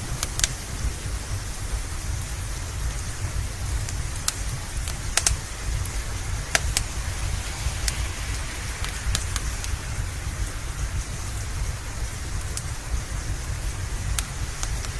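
Steady rain with a low rumble underneath, and sharp crackling pops from a wood fire scattered irregularly through it, roughly one a second.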